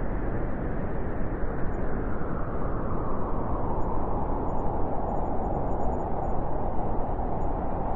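Wind blowing steadily, a rushing noise with its weight in the low range, which gathers into a higher, hollower whoosh in the second half.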